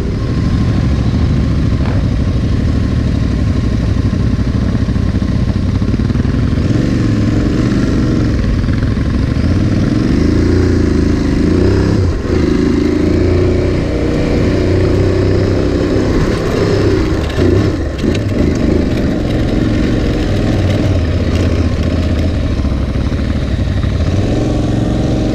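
Aprilia Tuareg 660's parallel-twin engine running under load on a dirt track, its revs rising and falling repeatedly with brief dips as the throttle is worked.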